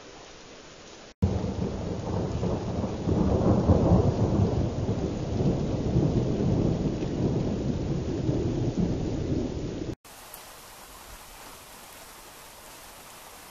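Rolling thunder from a weak thunderstorm: a low rumble starts abruptly about a second in, is loudest a few seconds later, and cuts off sharply near the end, leaving a faint steady hiss of rain.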